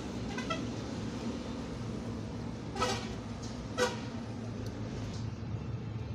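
Two short vehicle horn toots about a second apart, over a steady low engine hum.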